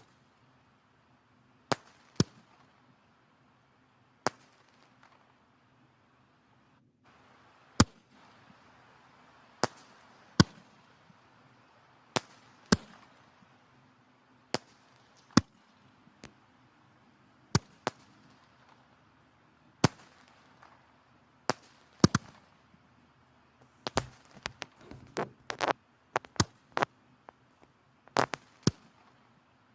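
Firewood burning in a fireplace, crackling: sharp, irregular pops and snaps every second or two over a faint steady hiss, coming thick and fast near the end.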